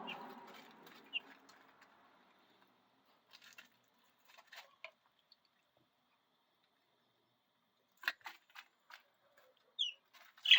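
Three-week-old chicks in a brooder, mostly quiet. They give a few short high peeps, and there are scattered light taps and scratches, with a rustle fading out at the start.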